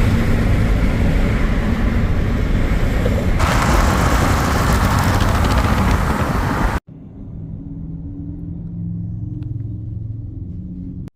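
A car driving in three cut clips. For about seven seconds there is a loud rush of engine and wind noise, growing hissier after a cut near the middle. It then cuts to a quieter, steady low engine hum.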